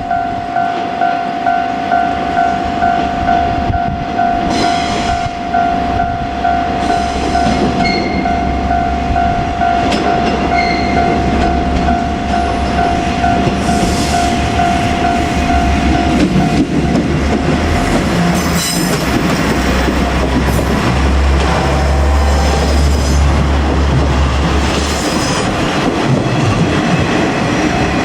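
Level crossing warning signal ringing in a steady repeating pattern, stopping a little past halfway, while a train passes close by with wheels clacking over the rail joints. The train noise is loudest near the end.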